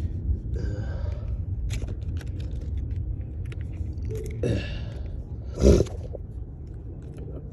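Hands handling parts and packaging: scattered clicks and short rustles, with one loud thump a little before six seconds in, over a steady low rumble.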